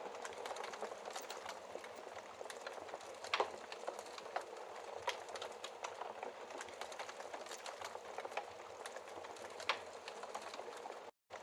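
Wood fire in a fireplace burning, a steady hiss with irregular crackles and a couple of louder pops. The sound cuts out for a split second near the end.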